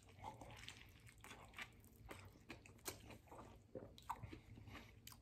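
A person biting into and chewing a burrito: faint, wet mouth sounds with scattered soft clicks.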